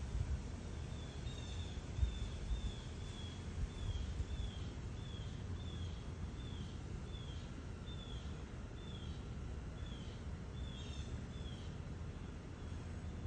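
A bird calling over and over in the background: short downward-slurred chirps, about two a second, over a low rumble with a few soft bumps in the first seconds.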